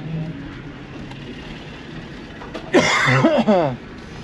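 A man's loud, breathy exclamation, like an excited laugh or whoop, falling in pitch and lasting under a second, near the end. It sits over a steady low background rumble.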